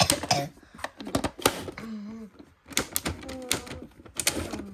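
Cartoon sound effects: a fast, irregular run of sharp clacks and clatters, with a few short pitched squeaks or vocal sounds in between.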